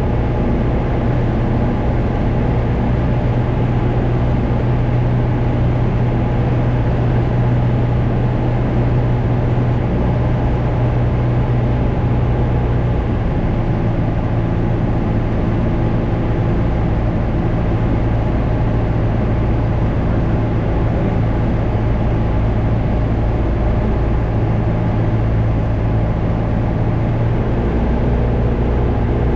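Cessna 172 single-engine propeller airplane droning steadily in flight, with a slight shift in engine pitch about halfway through and again near the end.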